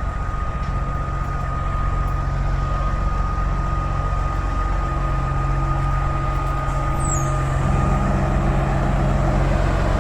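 Heavy truck diesel engine running steadily, with a thin high whine throughout. Its note and loudness step up a little about three-quarters of the way through.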